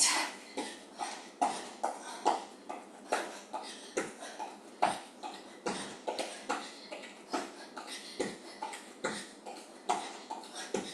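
Rhythmic thuds of jumping jacks, feet in running shoes landing on the floor at about two to two and a half jumps a second.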